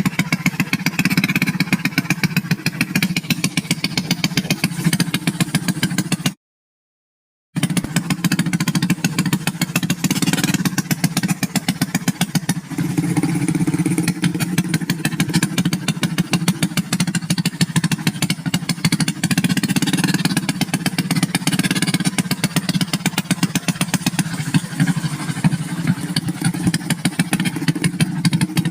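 Motorcycle engine running steadily with a fast, even firing pulse, cut off by about a second of dead silence a little over six seconds in.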